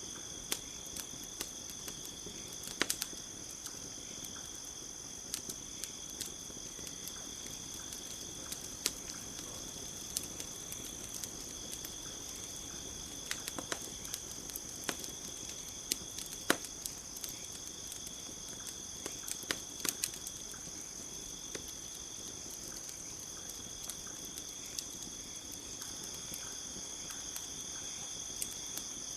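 Campfire crackling, with irregular sharp pops of uneven loudness, over a steady high insect trilling at two pitches.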